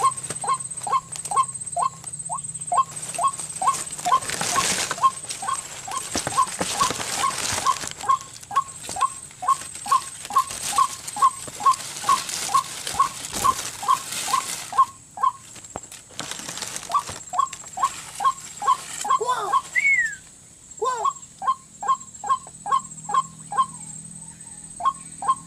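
White-breasted waterhen calls repeated about twice a second in a steady series, pausing briefly about two-thirds of the way through and then resuming, sounding as a lure at a bird trap. A steady high whine runs underneath, with rustling through the first half.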